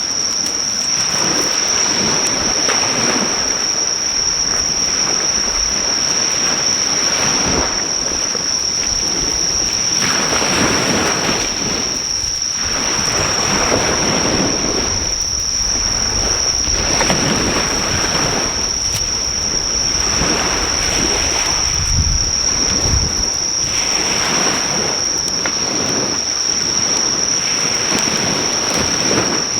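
Sea waves washing onto the shore in surges every few seconds, under a constant high-pitched trill of insects.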